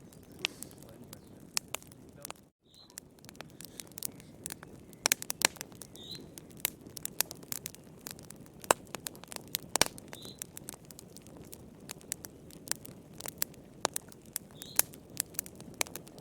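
Wood fire crackling in a fireplace: irregular sharp pops and snaps over a soft low hiss. The sound cuts out completely for a moment about two and a half seconds in.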